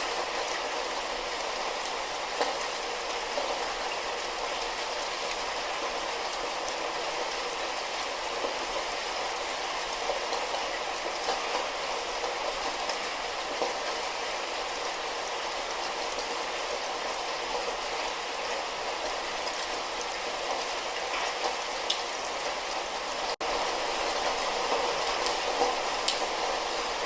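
Light rain falling steadily: an even hiss with scattered single drops ticking. There is a momentary gap about two-thirds of the way through, after which it is a little louder.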